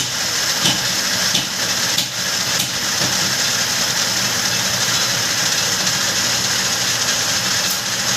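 Lathe running steadily through a turning cut, a constant motor hum under a steady hiss. A few sharp ticks come in the first three seconds and once near the end.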